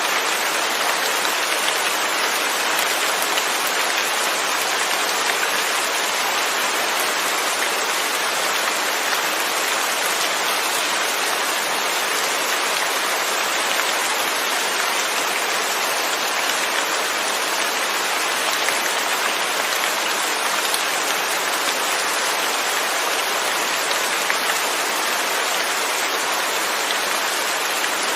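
Steady rain falling, with no thunder: an even, unbroken hiss of many drops.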